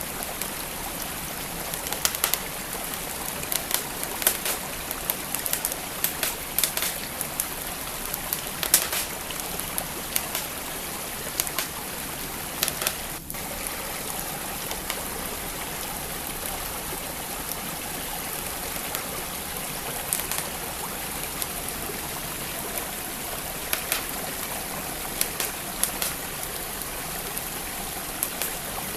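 Wood fire crackling with sharp, irregular pops over the steady rush of a flowing stream.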